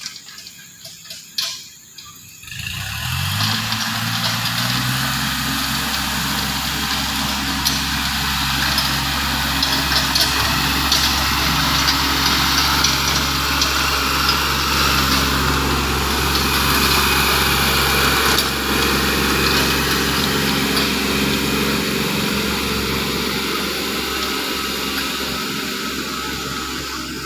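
Small tractor engine coming up to speed about two and a half seconds in, its pitch rising, then running steadily.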